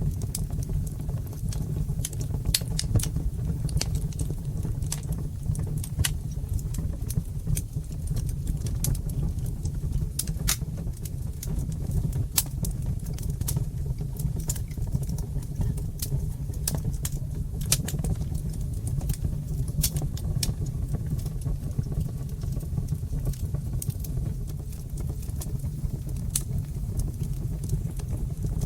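Fireplace fire crackling: irregular sharp pops and snaps, some in quick clusters, over a steady low rumble of the flames.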